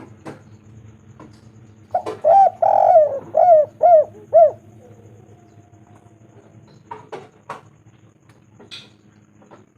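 Spotted dove cooing: one phrase of about six arched coo notes starting about two seconds in and lasting some two and a half seconds. A few faint short clicks follow later on.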